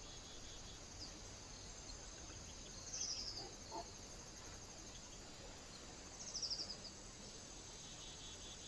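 A small bird gives two short, high, falling trills about three seconds apart, over a steady faint hiss.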